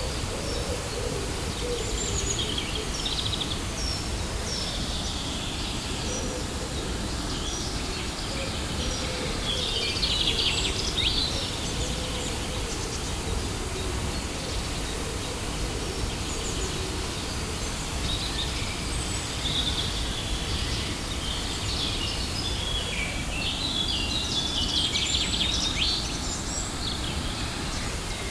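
Steady rush of a waterfall, with birds chirping and trilling over it, busiest about ten seconds in and again near the end.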